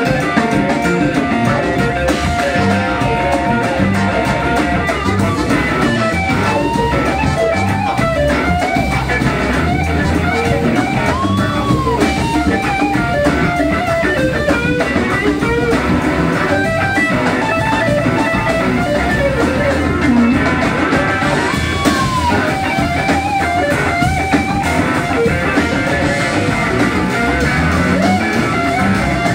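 Blues-rock band playing live: an electric guitar lead with gliding, arching notes over bass and drums, with no vocals.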